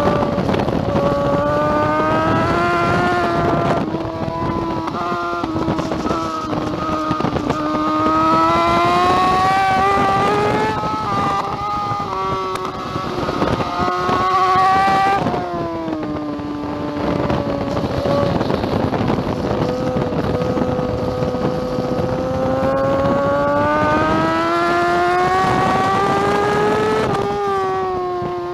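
2009 BMW S1000RR inline-four engine at full race pace, its pitch climbing steadily under acceleration and dropping sharply several times, about four, eleven, fifteen and twenty-seven seconds in, as it shifts and brakes for corners.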